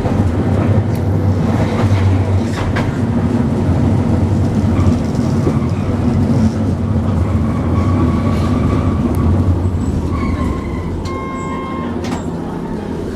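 Hankai Tramway tram running along the track, heard from inside the car: a steady low rumble of wheels and motors with scattered clicks from rail joints and a faint wheel squeal partway through. Near the end the running quietens and a short tone sounds once.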